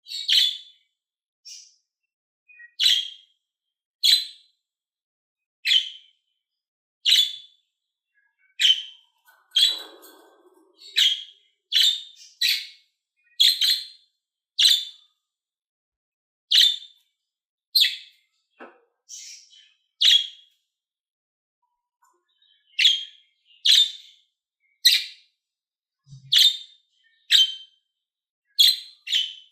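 Budgerigar giving short, sharp chirps, one after another about once a second, with a brief pause partway through.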